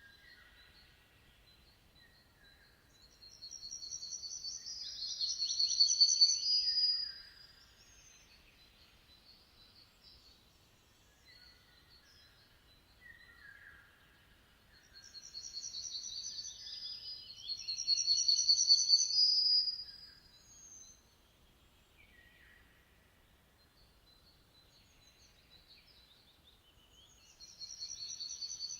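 Songbird song: three loud, high trilled phrases a few seconds long, about twelve seconds apart, with softer chirps between them.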